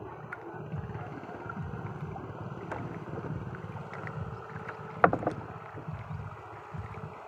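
A small boat on the water: an uneven low rumble of water and wind on the microphone, with scattered small clicks and one sharp knock about five seconds in.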